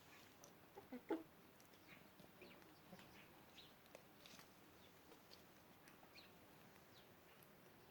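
Chickens clucking faintly, with scattered short calls and a couple of louder clucks about a second in.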